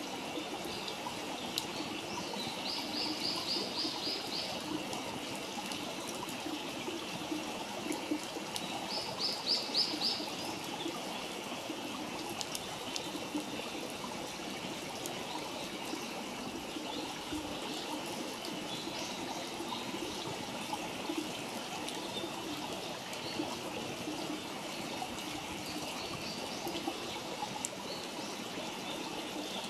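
Steady rushing of running water, like a nearby stream, with a small bird singing a quick high trill twice in the first ten seconds. A few faint pops, as from the wood fire, come through now and then.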